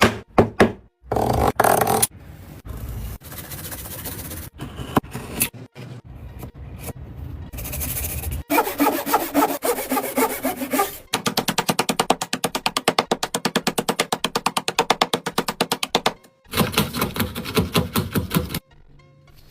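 Carpentry on timber: knocks and thunks on wood with rubbing strokes between them, and a fast, even run of strokes in the middle, over background music.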